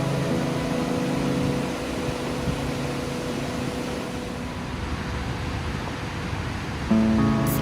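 Steady rushing of a large waterfall, with a motorcycle engine running for the first couple of seconds and then dying away. Music comes in near the end.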